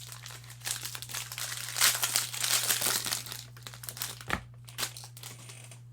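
Foil wrapper of a 2021 Bowman Jumbo baseball card pack crinkling in bursts as it is worked open, loudest in the first half, with a sharp click about four seconds in. A steady low electrical hum runs underneath.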